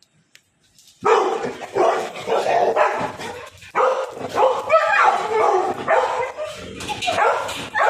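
A dog whining, yelping and barking in a continuous, wavering string of cries that starts about a second in.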